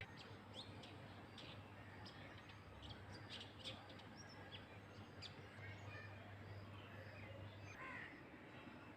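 Small birds chirping faintly, with many short high chirps scattered throughout, over a steady low hum that stops near the end. A single lower call comes just before the end.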